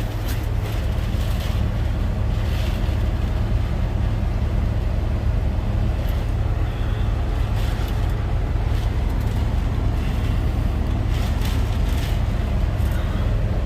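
Strong wind and heavy rain buffeting a truck cab, heard from inside, over a steady low rumble, with scattered sharp hits and gusts.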